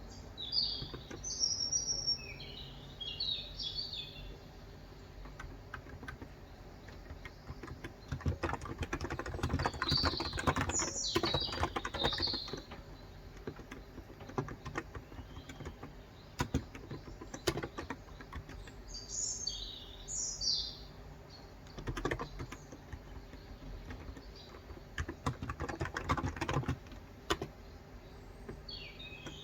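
Typing on a COX Endeavour electrostatic capacitive (Topre-style) tenkeyless keyboard with 35 g switches: runs of soft keystrokes with pauses between them. Birds chirp in short quick phrases four times over it.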